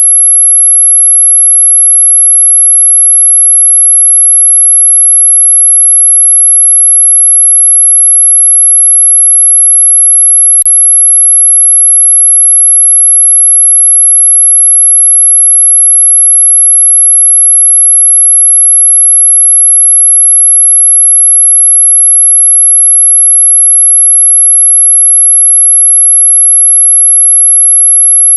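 Electronically generated anti-mosquito tone: a single very high-pitched steady whine held at one pitch, loud and unbroken, with one brief click about ten and a half seconds in.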